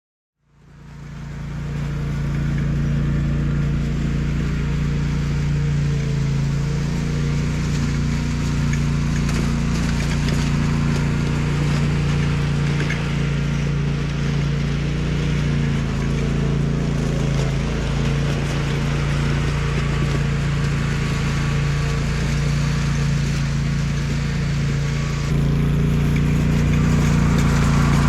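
A small engine running steadily at a constant speed. It fades in over the first couple of seconds and gets a little louder about 25 seconds in.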